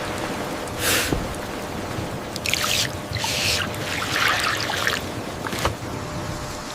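Water splashing and sloshing in irregular bursts, about five within a few seconds, over a steady low rumble.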